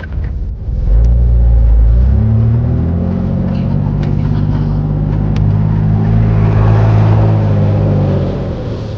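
Off-road vehicle engine revving up and running under load, its pitch stepping up twice early on, holding steady, then easing off near the end.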